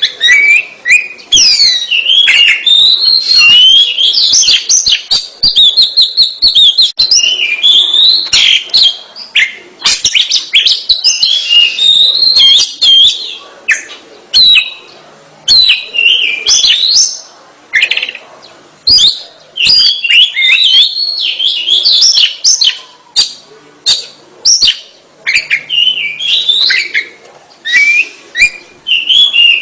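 Oriental magpie-robin (kacer) in full song: loud, fast, varied phrases of whistles and chirps, broken by short pauses every few seconds.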